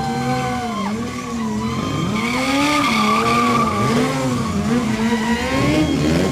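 Stunt motorcycle engine revved up and down over and over, its pitch rising and falling every second or so, with the tyre squealing against the pavement.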